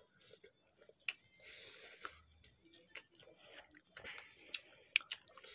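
Close-up eating sounds of a person eating rice and smoked chicken fry by hand: wet chewing, mouth smacks and fingers squishing the rice, with irregular sharp clicks, the loudest near the end.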